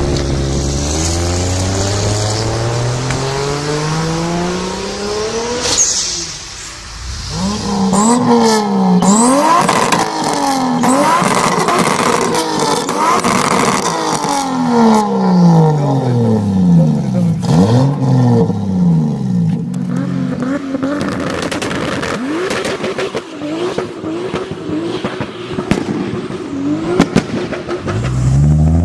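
Toyota Supra MK4's turbocharged 2JZ-GTE inline-six accelerating hard, revs climbing in long sweeps through the gears, with a short drop in level about six seconds in. Then come many quick rises and falls of revs, scattered sharp clicks in the later part, and another rising pull near the end.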